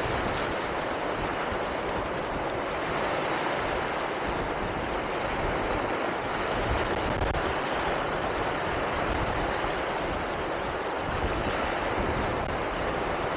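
Steady rushing noise of wind and sea surf, with uneven low rumbling from wind buffeting the microphone.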